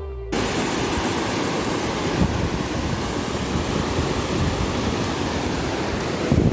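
Wind buffeting the camera microphone: a loud, steady rush cutting in a moment in, with irregular low gusts throughout.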